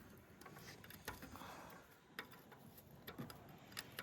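Faint, scattered clicks and taps of a wrench working loose a fitting, a few sharp ticks spaced irregularly over a quiet background.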